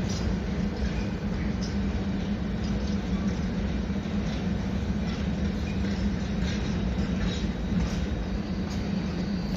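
Freight train's wagons rolling past at steady speed: a constant low rumble with a run of light clicks from the wheels over the rail joints.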